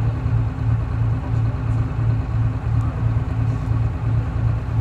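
GMC New Look bus's Detroit Diesel 6V71 two-stroke V6 diesel idling, a steady low drone that throbs about four times a second.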